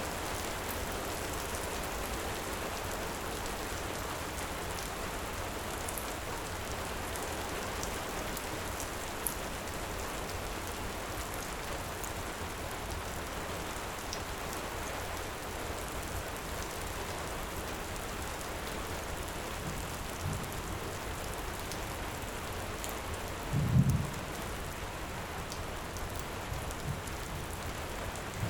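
Steady hiss of heavy rain, with scattered small crackling pops from a wood fire. About three-quarters of the way in, a short low rumble of thunder is the loudest sound.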